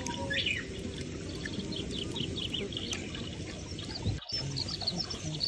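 Small birds chirping and twittering in quick, short calls over a low, steady background noise, with a brief break in the sound about four seconds in.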